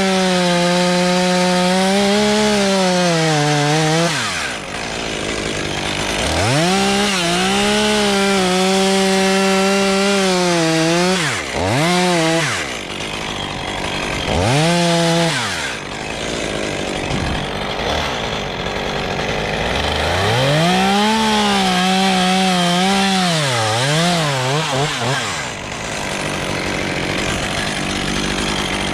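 Chainsaw revved up and held at full speed while cutting for several seconds at a time, dropping back to idle between cuts, with a few short blips of throttle in between.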